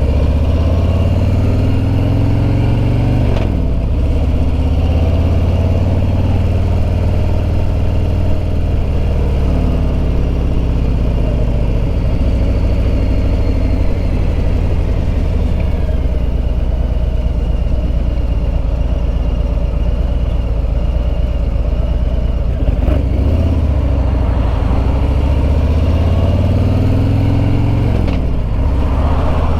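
Harley-Davidson Road Glide Limited's Milwaukee-Eight V-twin engine under way with wind noise. Its pitch climbs under acceleration and drops at an upshift about three seconds in, holds fairly steady, then climbs again and drops at another gear change near the end.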